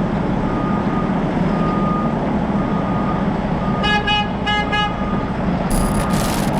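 Heavy truck's engine running steadily, with four short horn toots about four seconds in and a brief burst of hiss near the end.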